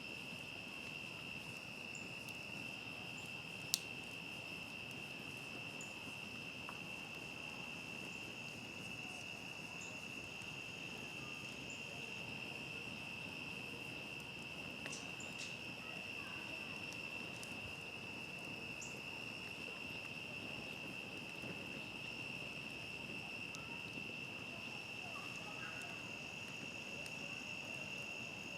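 Crickets trilling in a steady, unbroken chorus over a low background hiss. About four seconds in, a single sharp pop from the crackling campfire, with a few fainter ticks later.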